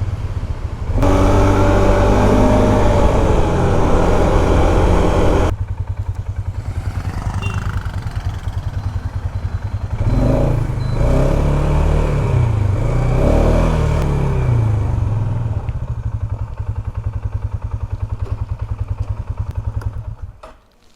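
Polaris Sportsman 570 ATV's single-cylinder engine running while being ridden. It is loudest for a few seconds near the start, and the throttle opens and closes twice around the middle. The sound falls away abruptly just before the end.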